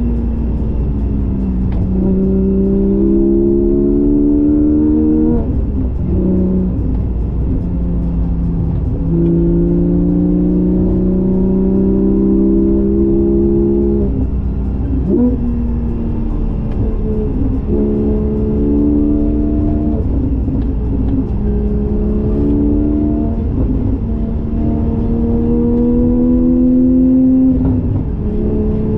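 Porsche 718 GTS 4.0's naturally aspirated flat-six running through a Kline stainless exhaust with the valves open, pulling through the gears. The pitch climbs steadily over several seconds and drops back at each gear change, several times over, with a couple of quick rev blips in between.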